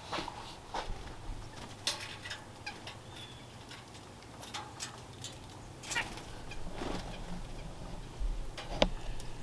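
Birds around feeders: wing flutters, scattered sharp taps and clicks, and a few faint short chirps, with one louder crack near the end.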